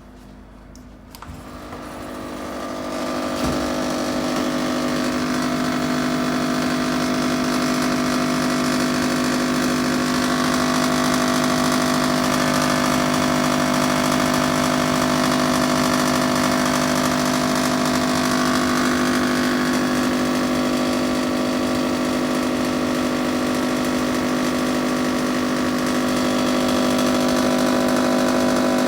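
Panasonic split air conditioner outdoor unit starting up about a second in, building over two seconds to a steady mechanical hum with several fixed tones. The abnormal noise in it comes from a copper refrigerant pipe sitting too close to the unit's casing.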